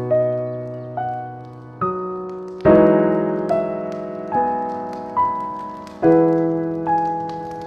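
Slow, soft solo piano music: a new note or chord is struck roughly once a second and left to ring and fade.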